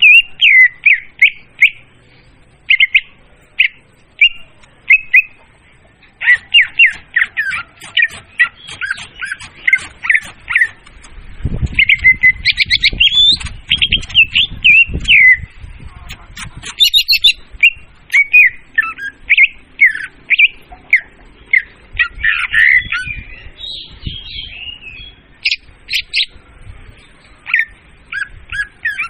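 Leafbird (murai daun) song played as a loud, clear lure call: rapid chirps and whistled phrases with short pauses. A low rumbling noise underlies it around the middle.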